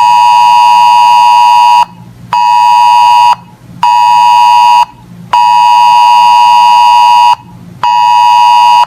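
Weather radio alert tone: a loud electronic buzz near 1 kHz sounding in five blasts (long, short, short, long, short) separated by half-second gaps, signalling an incoming weather alert.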